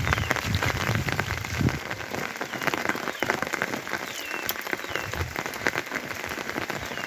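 Rain falling and pattering on surfaces, a dense run of separate drop ticks over a steady hiss.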